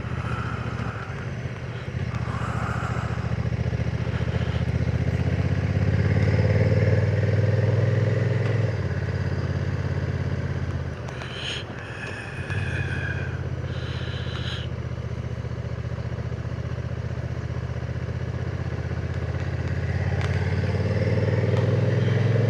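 Honda NT1100 DCT's 1084 cc parallel-twin engine pulling a climbing road. The note rises a few seconds in and drops back about nine seconds in. It eases off briefly around eleven seconds, with some light clatter, then pulls steadily again.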